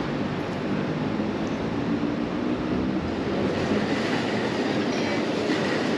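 Steady train noise, continuous and even, with a faint low hum in the first half.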